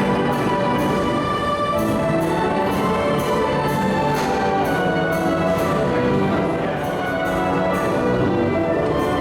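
Carousel band organ playing a brass-toned tune with steady drum beats.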